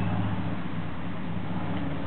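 A steady low motor drone over a constant hiss, unchanging throughout.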